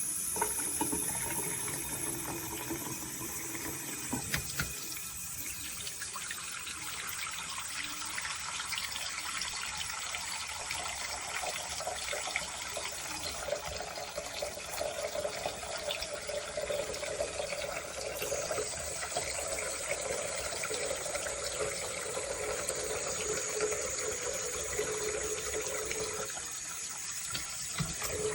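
Waterfall-spout bathroom sink faucet running steadily, water pouring into the basin.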